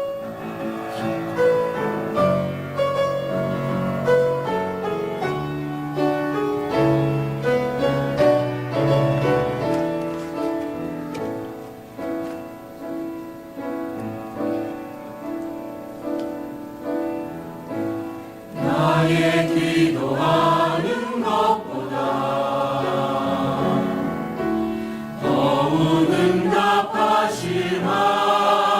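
A piano plays an introduction, then a church choir comes in about two-thirds of the way through, singing a Korean worship song over the piano accompaniment.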